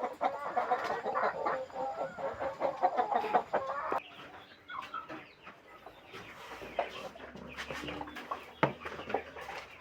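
A flock of kampung chickens clucking. Busy, overlapping clucks for about the first four seconds, then the level drops suddenly to scattered quieter clucks and a few sharp taps.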